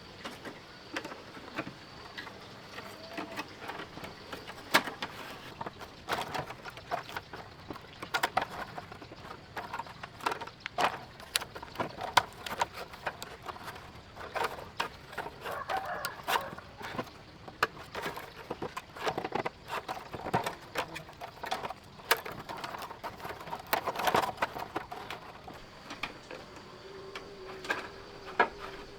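Irregular sharp clicks and knocks, scattered throughout, over a faint steady high tone.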